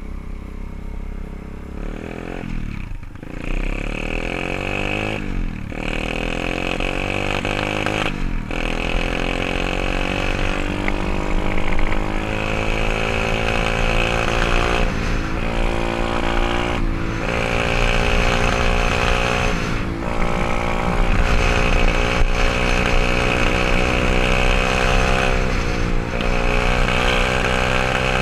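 A 124cc pit bike's single-cylinder four-stroke engine running under throttle. Its pitch climbs again and again, broken by several brief dips in the sound.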